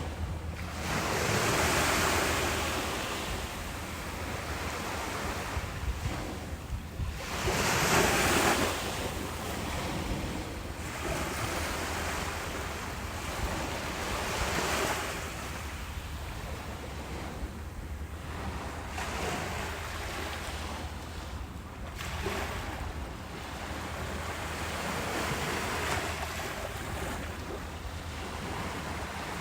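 Ocean surf breaking on a beach: waves swell and wash in every few seconds, the two biggest about a second in and about eight seconds in, with smaller ones after. A steady low rumble runs underneath.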